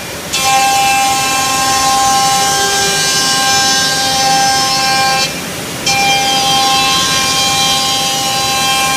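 CNC router spindle machining laminated MDF: a steady whine of several fixed tones over the hiss of the cut. The sound drops briefly twice, right at the start and for about half a second a little past halfway.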